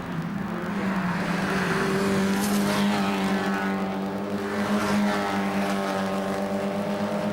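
Mazda MX-5 race car engines running hard, a steady drone with engine pitch rising and falling in the middle as cars go by.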